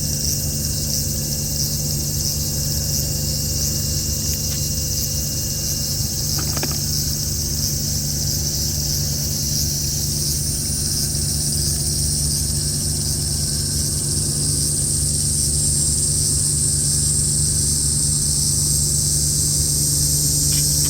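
Steady high insect chorus, buzzing without a break and growing a little stronger about halfway through, over a steady low mechanical hum like an idling engine.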